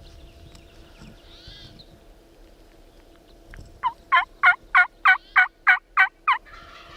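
Turkey yelping: a run of about nine sharp yelps, each dropping in pitch, about three a second, starting a little past halfway through.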